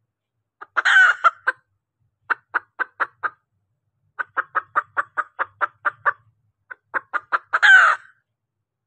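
Junglefowl hen calling: series of short clucks, speeding up in the middle, between two louder, drawn-out squawks about a second in and near the end. This is the kind of hen call used as a lure to draw in a male junglefowl.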